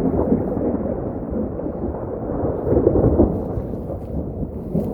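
Thunder rumbling, a long roll that swells and fades for several seconds without a sharp crack, not very boomy.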